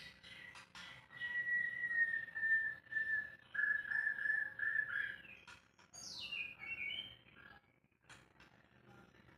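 White-rumped shama (murai batu) singing: a long held whistle lasting about four seconds that steps slightly lower partway through, then a quick falling whistle about six seconds in, with a few sharp clicks between.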